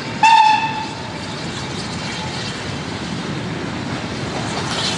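A freight train passing through the station: a short, loud whistle blast just after the start, then the steady running noise of the train going by.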